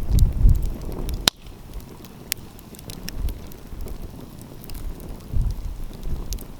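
Wood fire crackling with scattered sharp pops, one louder pop about a second in, over low rumbling wind gusts on the microphone.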